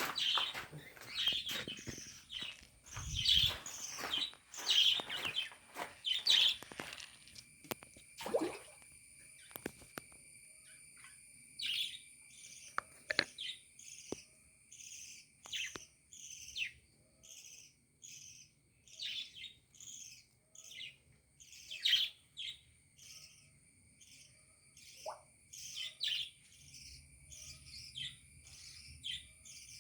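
Budgerigars chirping and chattering in quick, short calls, densest in the first few seconds. A steady high-pitched ringing runs underneath them.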